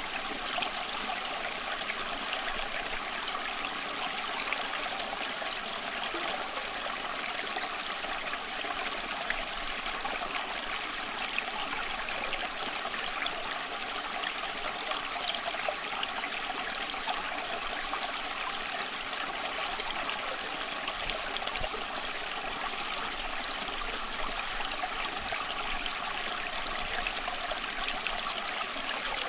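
Small stream flowing and trickling steadily over rocks, an even rushing splash.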